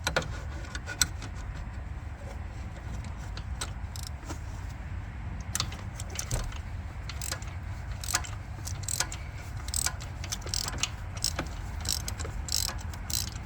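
Ratchet wrench on a long extension and spark plug socket, loosening a spark plug in a 5.7 Hemi V8: a run of irregular metallic clicks and rattles, busier in the second half, over a steady low hum.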